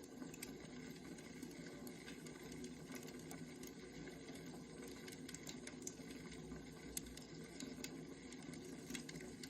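Wood fire crackling: a steady low rush with frequent small pops and snaps scattered through it.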